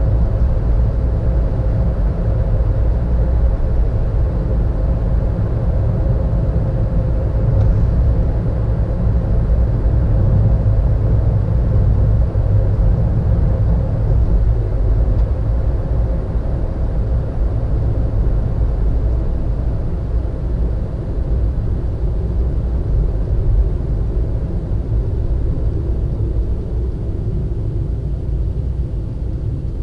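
Car driving on a road, recorded from inside: steady engine and tyre rumble, with a faint steady hum that fades about two-thirds of the way through.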